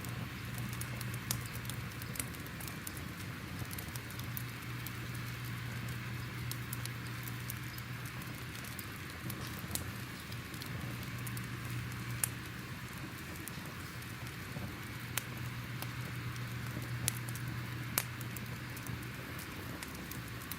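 Crackling fire: irregular sharp pops and snaps over a soft hiss and a steady low hum.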